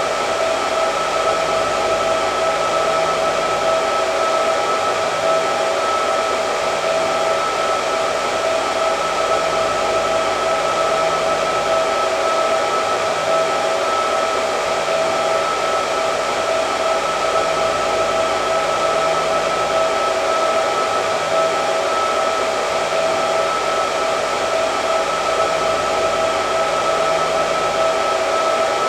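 Hair dryer running steadily, with a rushing airflow and a steady motor whine.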